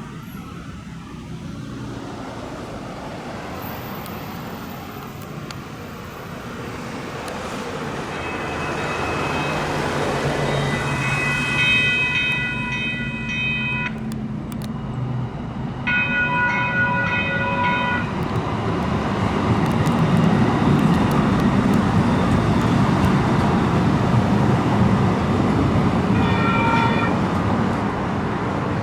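Light rail train approaching and passing, its running rumble growing louder through the middle. Its horn sounds three times: a blast of a few seconds about ten seconds in, a shorter one a few seconds later, and a brief toot near the end.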